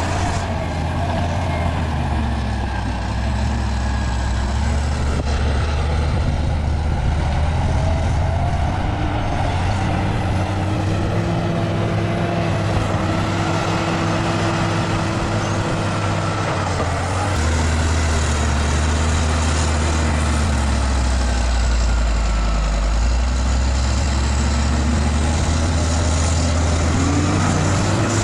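Bulldozer's diesel engine running steadily under load, its note shifting with the revs; it gets a little louder partway through, then drops and comes back up near the end.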